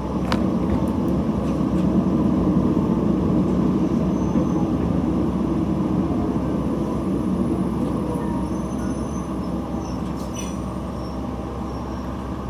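Diesel railcar running along the track, heard from inside the train: a steady low rumble with a few sharp clicks. It swells about two seconds in, then slowly fades.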